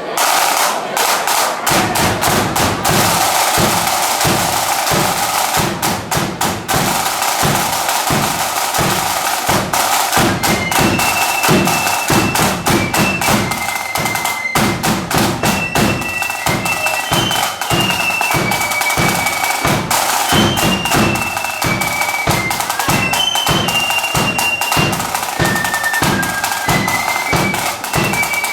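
Marching flute band playing. Snare and bass drums beat a steady march rhythm, and the flutes come in with a high melody about ten seconds in.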